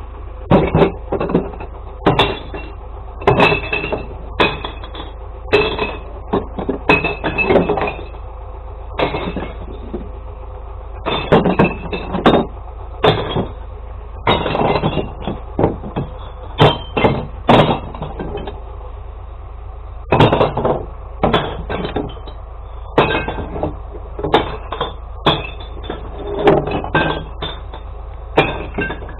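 Glass bottles and jars crashing and clinking into a glass recycling truck's compartments as bins of sorted glass are tipped, in irregular clusters of sharp impacts.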